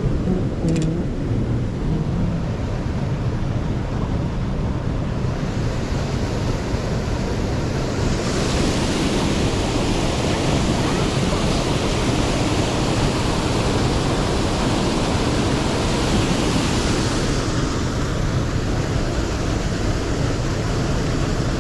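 Steady rushing of a mountain stream mixed with wind buffeting the microphone, with a deep rumble underneath. For about ten seconds in the middle the rush turns brighter and hissier, then settles back.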